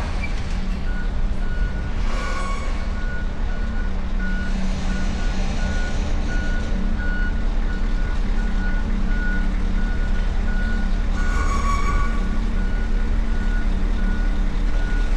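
A heavy truck's reversing alarm beeping steadily at one pitch, over the low, steady rumble of idling diesel engines. Two brief brighter tones break in, about two seconds in and again near the end.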